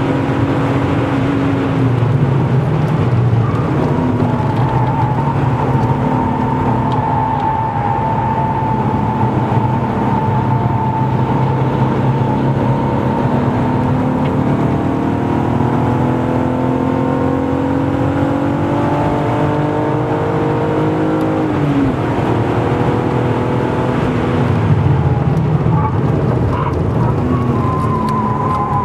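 BMW E36 328i's 2.8-litre straight-six, fitted with an M50 intake manifold, running hard under track-day load, heard from inside the cabin. Its pitch climbs steadily over long stretches and drops suddenly about 22 seconds in.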